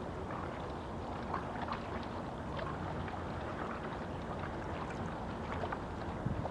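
Small waves lapping and splashing at the water's edge, many little splashes over a steady wash of wind.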